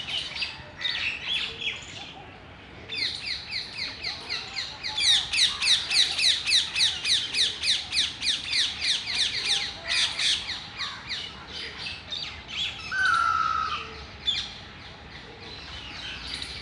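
Parrots calling in a rapid run of short, harsh notes, about five a second, each dropping in pitch. The run builds up a few seconds in, is loudest through the middle and thins out toward the end.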